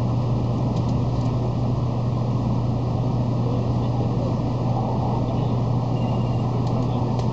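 Steady cabin noise inside a 700 series Shinkansen car under way: a continuous low hum under an even rumble.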